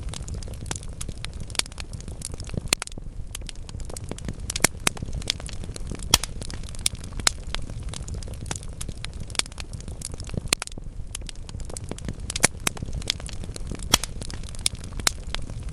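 Wood fire burning in a fireplace: a steady low rush of flames with frequent sharp crackles and pops from the burning logs, coming at irregular intervals.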